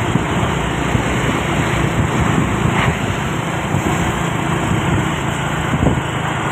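Loaded truck on the move: steady engine and road noise, a constant low rumble.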